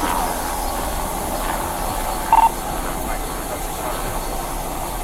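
Steady hissing rush of outdoor background noise, with one short electronic beep about two and a half seconds in.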